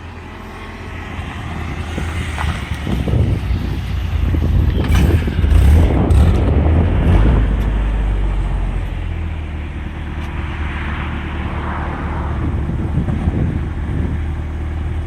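BMW E30's M42 four-cylinder engine running with a deep rumble that grows louder for a few seconds around the middle, then eases back.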